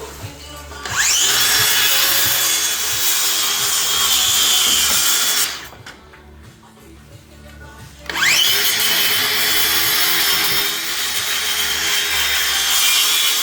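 Electric power saw cutting wooden boards, twice. Each run starts with the motor whining up to speed and lasts about five seconds.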